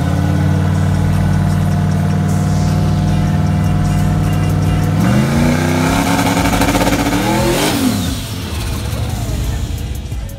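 Big-block V8 of a big-rim donk running at held high revs at the drag-strip starting line. The revs step up about five seconds in, then surge and fall away sharply just before eight seconds, after which the engine sound drops off.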